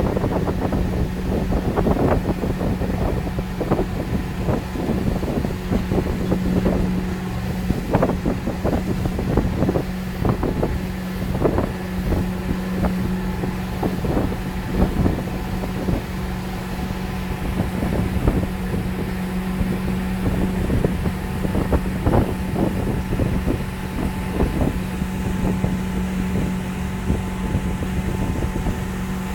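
Motorboat engine running steadily at speed, one even drone throughout. Wind buffets the microphone in frequent, irregular gusts.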